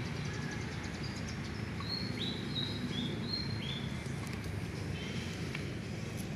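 A string of short, high, flat whistled bird chirps, bunched about two to four seconds in, over a steady low outdoor rumble.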